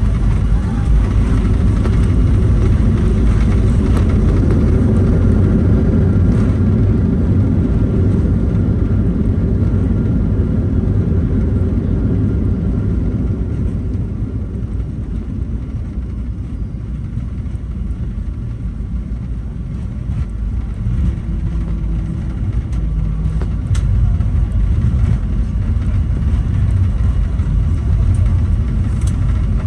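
Cabin noise inside a Boeing 737-800: a loud, steady low rumble of the engines and airflow, easing a little midway and swelling again near the end.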